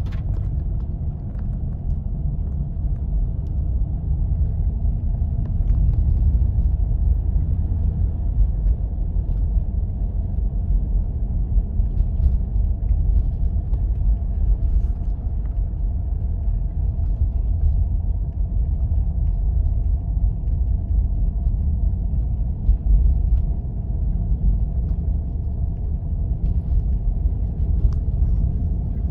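4x4 driving along a snow-covered road, making a steady low rumble of engine and tyre noise, with faint scattered ticks.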